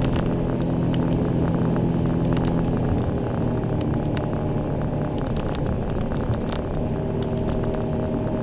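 A 2002 Subaru Impreza WRX STI's turbocharged flat-four engine running steadily while the car is driven, heard from inside the cabin, with tyre and road noise. The engine note changes about three seconds in, and light clicks are scattered throughout.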